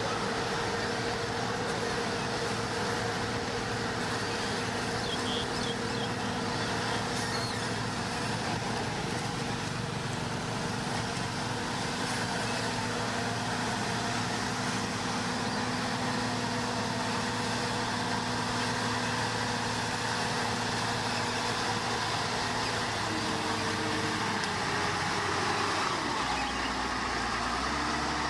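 Heavy diesel engine of earthmoving machinery running steadily, its pitch rising in steps near the end as it revs.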